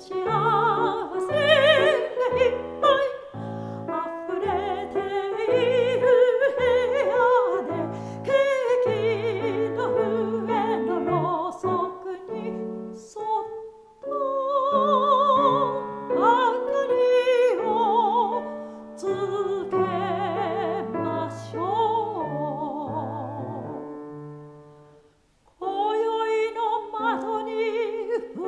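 Soprano singing a Japanese art song with a wide vibrato over piano accompaniment. The music fades out about 25 seconds in, and a new passage for voice and piano begins a second later.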